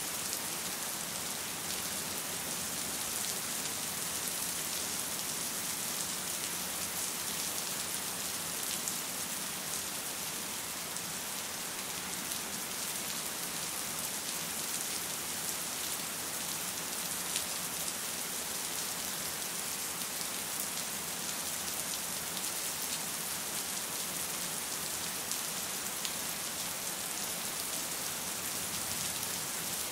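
Steady rain: an even hiss of countless drops, with here and there a single louder drop ticking through.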